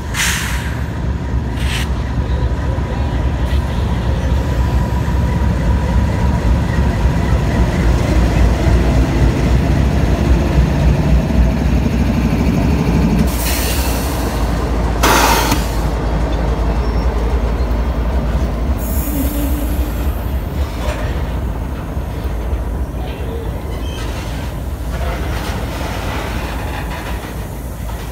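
A train passing close by: a continuous low rumble of wheels and cars on the rails that swells through the middle and eases off toward the end, with a few short sharp clanks, the strongest about fifteen seconds in.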